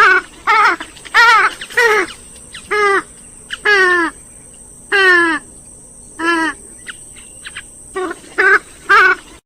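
Grey-headed swamphen giving a run of about a dozen loud, short calls, several sliding down in pitch, at uneven gaps.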